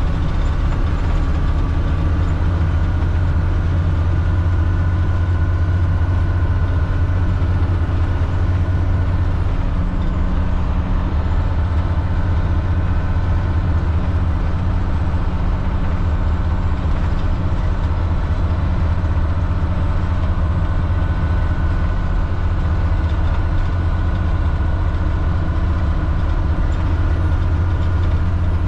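Caterpillar C7 inline-six diesel engine of a 2005 Blue Bird All American front-engine bus, running steadily with a strong low drone; the low tones shift slightly about ten seconds in.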